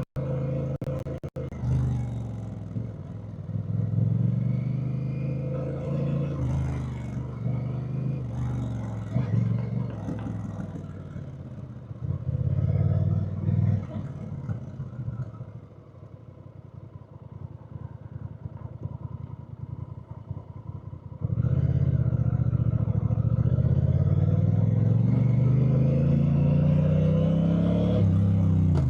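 Honda Rebel 1100's parallel-twin engine heard from the moving motorcycle, its revs rising and falling through the first half. It goes quieter for several seconds past the middle. About two-thirds through it suddenly gets loud and climbs steadily in pitch under acceleration, dropping again near the end.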